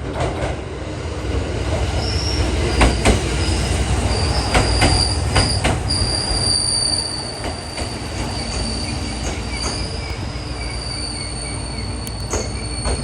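Setsugekka resort train running slowly with its wheels squealing on the rails in long high tones, over a steady rumble, and a few sharp clacks as the wheels pass rail joints or points, typical of a train nearing its terminus.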